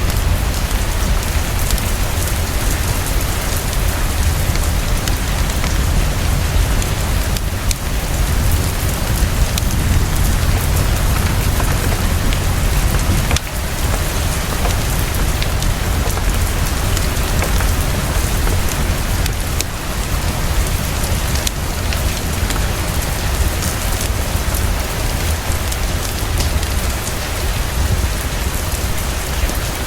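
Heavy, steady rain pouring, with a deep low rumble underneath.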